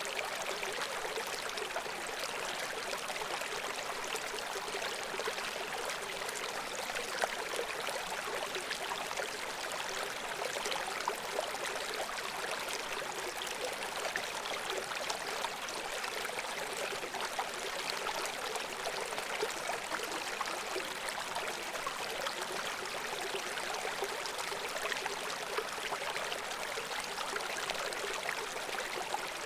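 Shallow brook babbling over stones: a steady rush of flowing water with fine trickling and splashing, and little low rumble.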